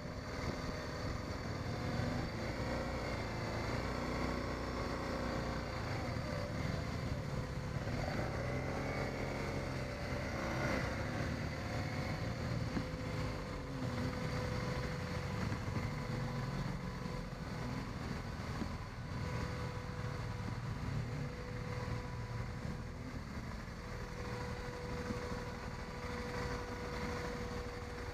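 BMW 650 GS motorcycle engine running under way, with wind and road noise. The engine pitch rises and falls through the first half, then holds steadier.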